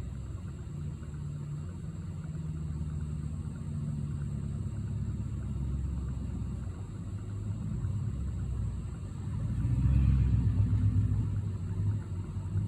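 Low rumble of a motor vehicle's engine, swelling louder about ten seconds in, as if the vehicle passes close by.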